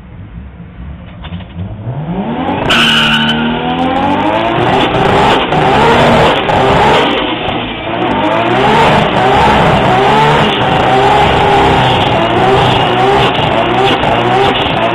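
Nissan Skyline R33 GTS-T's 625 bhp RB27 straight-six revving hard during a burnout, with the rear tyres spinning. Quieter for the first two seconds, then the revs climb steeply and stay high, the pitch wavering up and down over and over as the throttle is worked.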